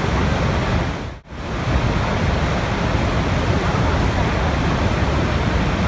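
Steady rushing water, a continuous noise strongest in the low end. It dips sharply almost to nothing for a moment about a second in, then comes straight back.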